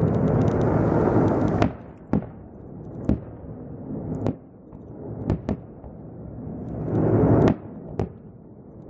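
Aerial firework shells bursting: a series of sharp bangs, about eight in all, with stretches of rumbling noise near the start and again building up to a loud peak shortly before the end.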